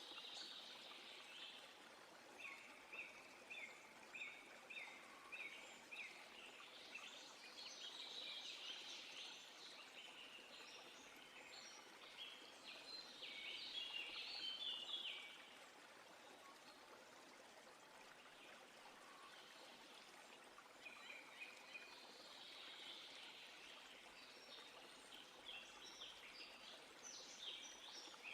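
Songbirds singing faintly in quick runs of short, high, repeated notes over a soft steady hiss of outdoor background.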